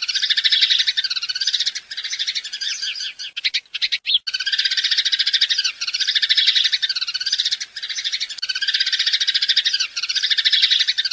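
House sparrows chirping: a dense, continuous chatter of short, quick chirps that repeats in a pattern about every second, with a brief break about three and a half seconds in.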